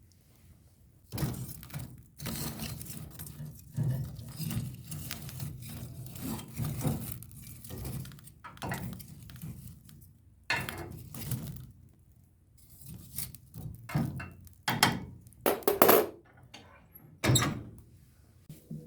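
Kitchen work sounds. About a second in, a run of dull thuds and rustling handling starts, and several sharper knocks follow near the end.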